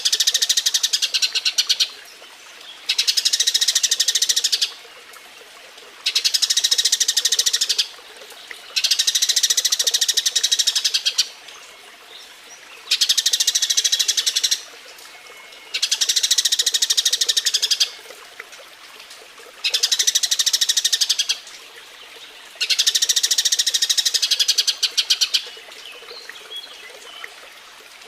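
Eurasian tree sparrow chirping in its mating (kawin) mode: fast, dense runs of sharp chirps in bursts of about two seconds, broken by short pauses of roughly a second, repeating about nine times.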